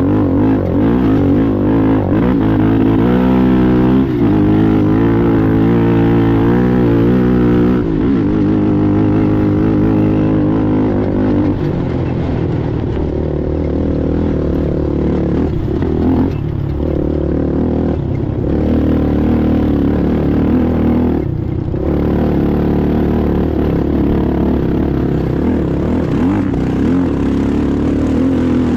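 Racing ATV engine running hard, its pitch climbing and falling as the throttle is worked and gears change, with a sharp drop in pitch about eight seconds in.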